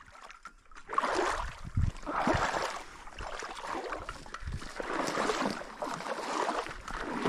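Water splashing and sloshing in uneven bursts, starting about a second in.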